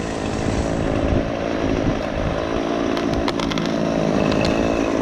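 A small petrol engine running steadily at idle, with a few sharp clicks about three seconds in.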